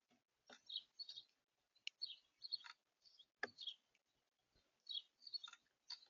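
Small birds at a feeder giving short, high chirps in quick clusters, about one cluster a second, with a few faint clicks among them.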